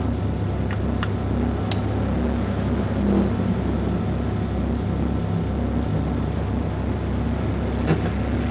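Honda Civic running on a race track, heard from inside the cabin: a steady engine drone under heavy low rumble and road and wind noise, with a few sharp clicks from the car.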